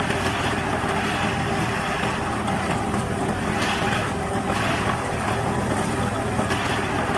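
Tractor engine running steadily, a continuous even engine noise with no changes in speed.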